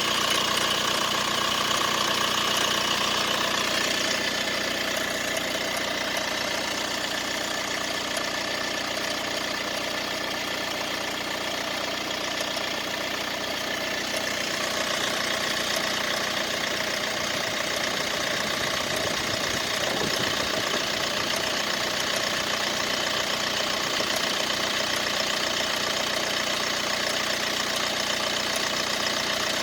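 Mercedes-Benz B180 (W245) engine running steadily with a rattle, which the owner cannot place. The sound eases slightly about four seconds in and picks up again around fifteen seconds in.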